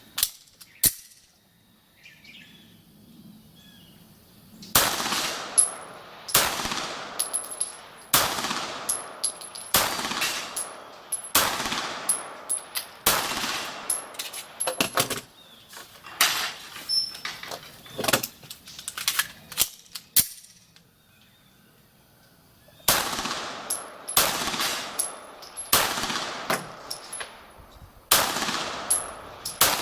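Beretta 92G Elite Compact 9 mm pistol fired in slow, aimed single shots, about one every second and a half, in strings broken by pauses of a few seconds. Short high rings follow many of the shots, typical of rounds hitting steel plate targets.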